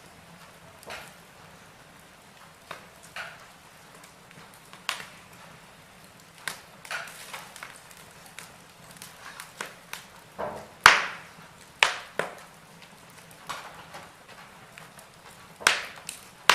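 Wood fire in a fireplace crackling, with irregular sharp pops and snaps over a soft hiss. The loudest pops come about 11, 12 and 16 seconds in.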